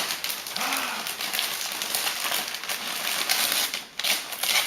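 Gift-wrapping paper crinkling and rustling in irregular bursts as it is pulled at.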